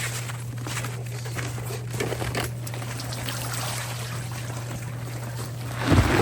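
Water trickling over a steady low hum, with a louder burst of noise near the end.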